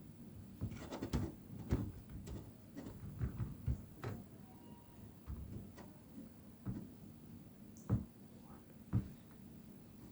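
A string of irregular clicks and knocks, like objects being handled, with two louder thumps near the end.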